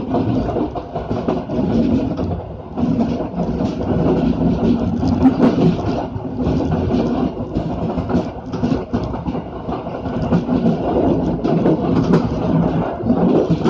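Passenger train running on the rails, heard from on board at the rear carriage: a steady rumble of wheels on track with frequent sharp clicks and clatter from the rails.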